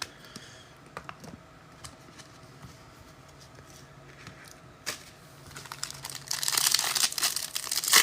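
A few light clicks and taps from handling cards, then, from about six seconds in, loud crinkling and tearing of plastic trading-card packaging being ripped open.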